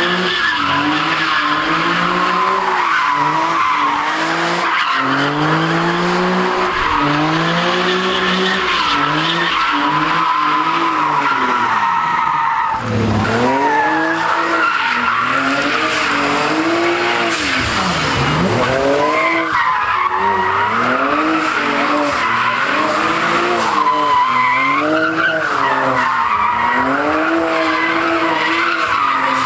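A car drifting: the engine revs up and down over and over, about once a second or so, over a continuous tyre screech.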